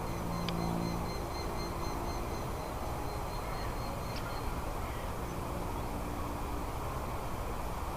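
A bird's rapid series of short, high, evenly spaced calls, about four a second, fading out about halfway through, over a steady low rumbling background noise.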